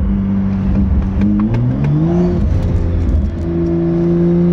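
Car engine under way: it runs steadily, then its pitch rises for about a second as it accelerates, drops as if shifting gear, and settles into a steady higher drone near the end.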